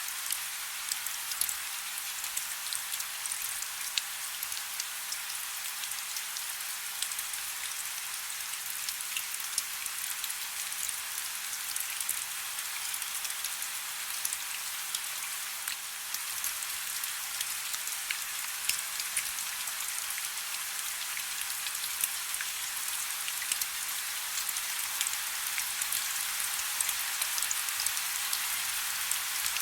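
Steady soft rain falling, an even hiss dotted with many small drop ticks.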